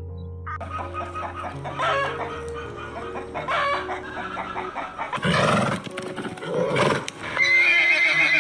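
Chickens clucking and a rooster crowing, a series of calls that grow louder from about five seconds in, over steady background music.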